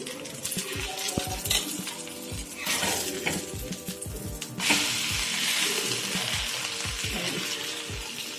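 Bread omelette frying in oil on a hot iron dosa tawa, with a metal spatula scraping under it to lift and flip it. A little past halfway the flipped omelette lands egg side down and the sizzling jumps up suddenly and stays loud and steady. Background music with a steady beat runs underneath.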